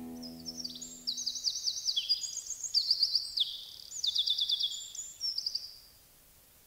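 A songbird singing in quick high trills and runs of rapid falling chirps, in several phrases that end about six seconds in. Under the first phrases the last held chord of the song fades out.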